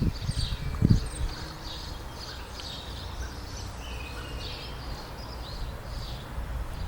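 Several birds singing, with many short chirps and trills throughout. A low rumble sits under them and peaks in a thump about a second in.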